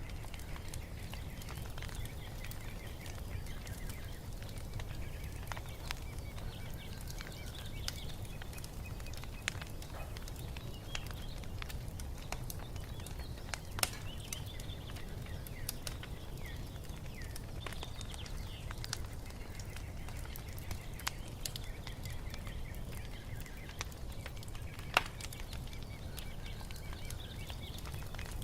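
Wood fire crackling with scattered sharp pops, two of them louder, about halfway through and near the end, over a low steady rumble. Faint birds chirp in the background.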